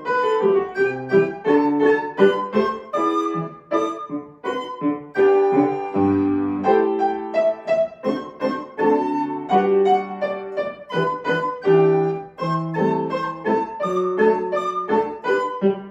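Solo piano playing a lively children's piece in a steady stream of short, quick notes.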